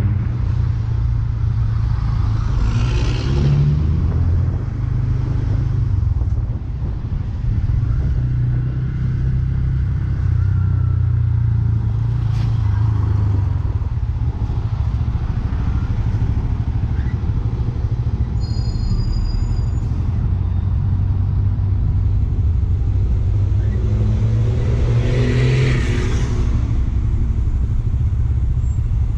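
Bajaj Pulsar N160's single-cylinder engine running steadily under way, a constant low drone. Two louder swells of noise rise and fall over it, about three seconds in and again near the end.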